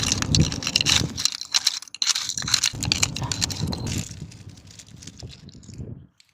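Shells and stones clattering and scraping: a dense run of clicks and rattles that stops abruptly near the end.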